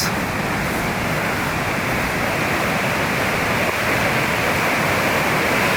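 Flood-swollen creek rushing, a steady loud rush of water.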